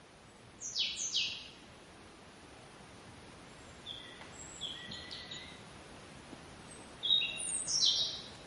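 Birds chirping: two quick falling chirps near the start, a few faint short notes in the middle, and another burst of chirps near the end, over a steady background hiss.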